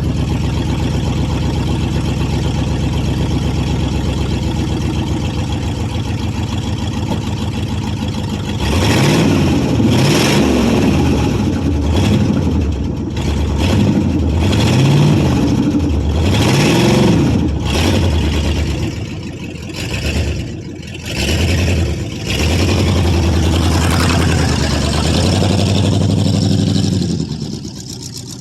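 1995 Ford F-150's 5.8-litre (351) V8 running at a steady idle, then from about eight seconds in revving hard up and down several times, then holding a steady higher speed before falling off near the end. The engine has a couple of cylinders not firing, which the owner puts down to a head gasket or cracked head.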